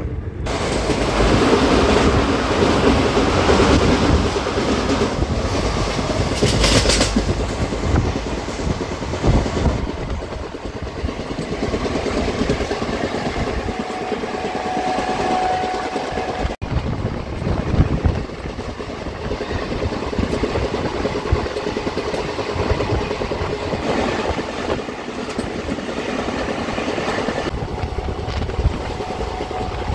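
Indian Railways express passenger train running along the track, heard from aboard: a steady rumble and rattle of the coach with wheels clattering on the rails, and a brief rush of louder noise about seven seconds in.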